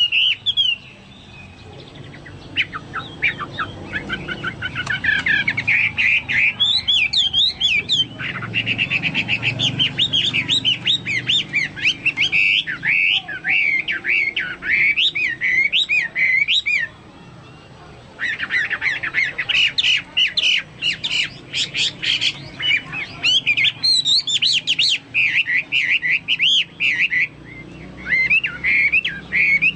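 Chinese hwamei singing hard: long runs of loud, rapid warbled and whistled notes that rise and fall, broken by a few short pauses. The song is of the kind likened to a cucak Papua or cucak mas.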